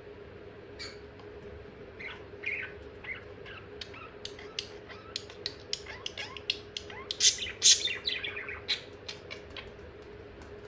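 Budgerigar chattering: a quick run of clicks, chirps and warbles that starts about a second in and thickens, with two loud squawks about two-thirds of the way through.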